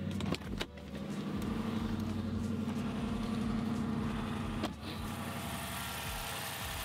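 Chrysler 300C's 5.7-liter Hemi V8 idling steadily on its first run after the intake manifold gaskets were replaced. A couple of sharp clicks come about half a second in and another near five seconds, after which the engine note steps down slightly.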